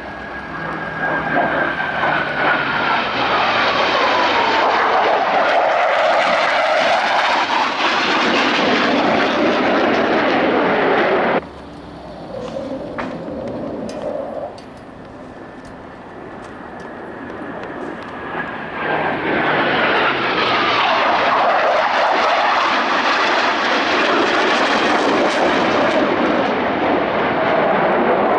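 Twin-engine F/A-18 Hornet jet flying past twice, each pass a loud rush of jet noise with a whine that falls steadily in pitch as it goes by. The first pass cuts off abruptly about eleven seconds in, leaving a quieter stretch before the second builds up.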